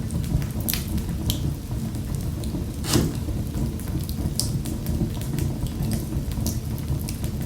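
Wood fire in a fireplace crackling, with irregular sharp pops over a steady low rumble of burning; one louder pop about three seconds in.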